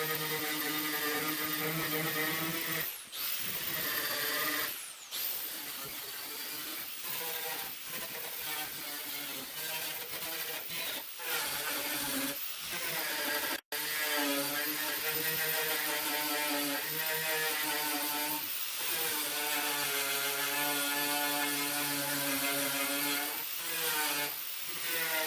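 Handheld electric power tool spinning a paint- and rust-stripping wheel against painted sheet metal, running at a steady pitch that sags briefly under load about three and five seconds in. The sound cuts out for an instant about halfway through.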